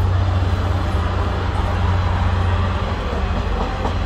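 Decorated holiday train's illuminated freight cars rolling past close by: a steady, continuous low rumble of wheels on rail.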